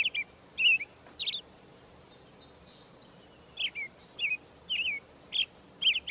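A small bird calling in short, clear chirps, each a quick sweep in pitch. There are three chirps, a pause of about two seconds, then five more at about two a second.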